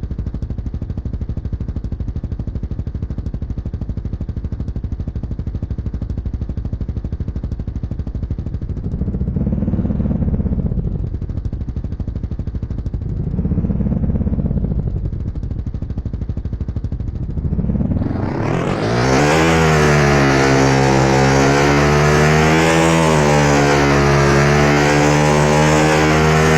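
Motorcycle engine idling, blipped twice by the throttle, then revved up about two-thirds of the way in and held running at higher revs with the pitch wavering.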